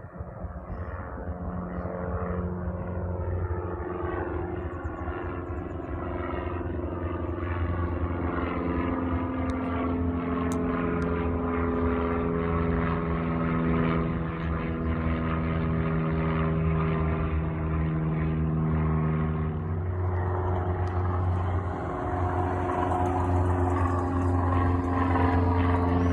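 A propeller-driven light aircraft's piston engine running steadily and slowly growing louder, its note changing about 20 seconds in.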